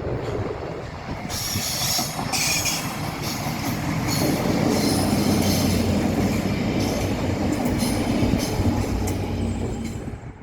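Train passing close by, its wheels rattling and squealing on the rails. From about four seconds in, a steady low drone runs underneath.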